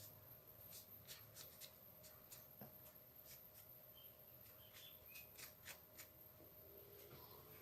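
Near silence with faint, scattered light clicks and taps of small metal parts and tools being handled during reassembly of an angle grinder.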